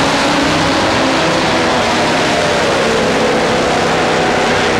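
Top Fuel drag motorcycles at full throttle during a quarter-mile pass: a loud, steady engine blare.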